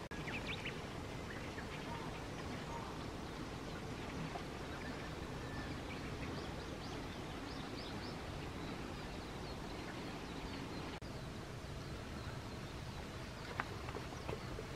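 Outdoor ambience: a steady low rush with faint, short bird chirps scattered through it, and a brief dropout about eleven seconds in.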